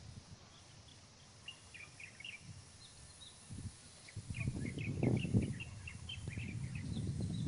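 Small birds chirping repeatedly in woodland. From about halfway, an irregular low rustling rumble comes in and grows louder than the birdsong.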